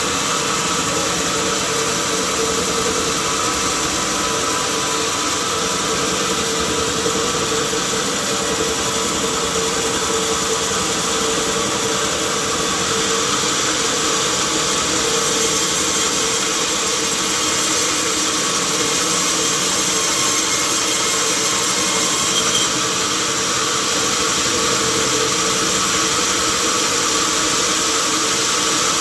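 Sawmill machinery running steadily: a constant loud mechanical drone with a held hum, unbroken throughout.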